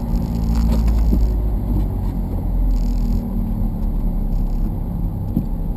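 Car engine running steadily with a deep, low rumble.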